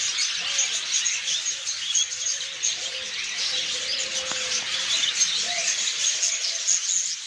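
Many caged pet birds chirping and twittering at once in a continuous, dense chatter, with a lower held note in the middle.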